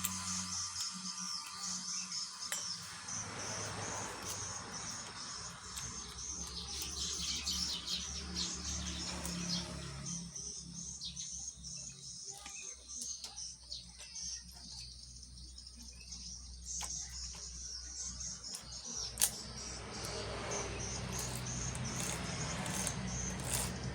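Birds chirping repeatedly, with a low machine hum coming and going underneath.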